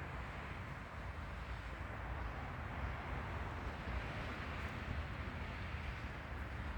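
Steady outdoor background hiss, with wind buffeting the microphone as an uneven low rumble.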